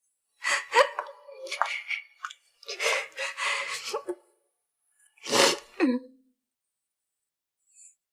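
A person's breathy, strained cries without words, in three bursts. The pitch slides down at the end of the first and last.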